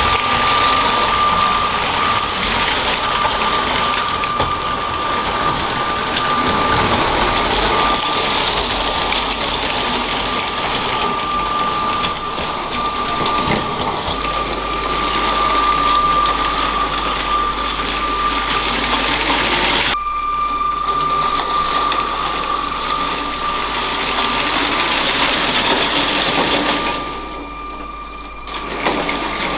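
Small electric motor of a LEGO train whining at one steady pitch over a steady rushing, rattling noise as the train runs on plastic track. The sound drops briefly near the end.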